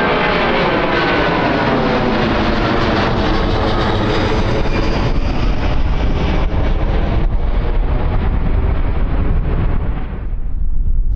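Jet airliner passing close by: its engine whine slides down in pitch as it goes past, over a deep rumble. About ten seconds in the whine falls away and wind noise on the microphone takes over.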